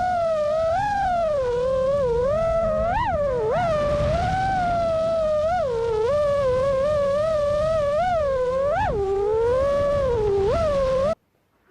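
A single sustained pitched tone that glides smoothly up and down in a wavering, melody-like line, with quick upward swoops. A low rumble sits underneath, and both cut off suddenly near the end.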